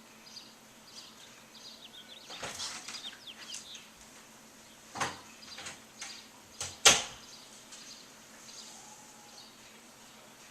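Small birds chirping in short high calls, with a few sudden sharp knocks; the loudest knock comes about two-thirds of the way through.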